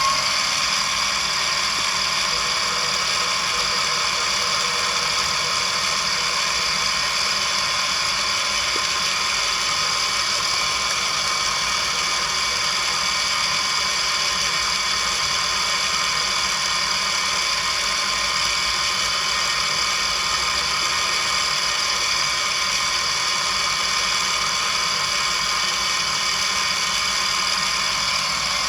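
Small milling machine running steadily with a high whine while the table traverses the brass workpiece under the cutter in a fast light finishing pass to polish the surface.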